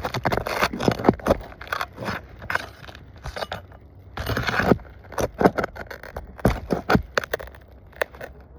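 Asphalt roof shingles being worked by hand and lifted apart: irregular scraping and crackling with sharp clicks and knocks at uneven intervals.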